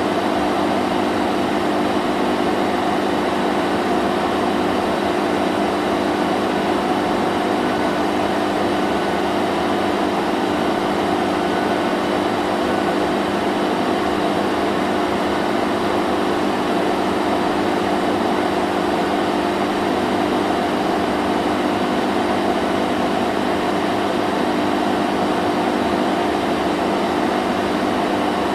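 Vacuum cleaner running steadily: a continuous motor whine and rush of air with a steady hum, unchanging throughout.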